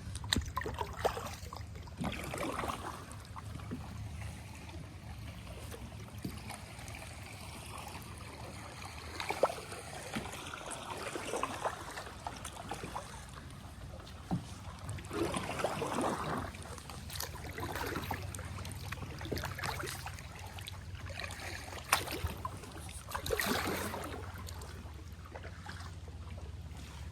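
Kayak paddle strokes dipping into calm river water, with dripping and trickling between strokes and a few sharp knocks.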